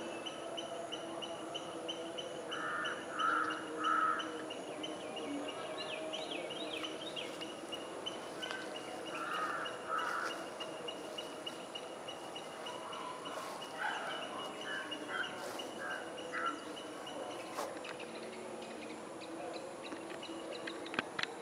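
Birds calling outdoors: short repeated calls in groups of two to four, with a brief higher twittering between them, over a steady background hum of the countryside.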